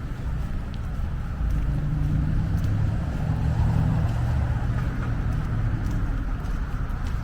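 A car driving past, its engine and tyre rumble swelling about a second and a half in and fading again after about five seconds.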